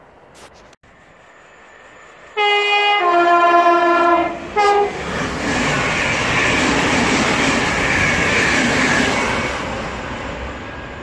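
A passing electric multiple unit's two-tone horn sounds a high note, then a lower one, then a short high note again. The rush and rumble of the train passing at speed follows and eases off near the end.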